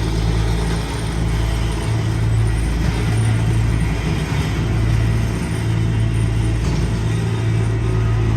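Heavy diesel paving equipment running: a steady low engine hum under a wide mechanical din.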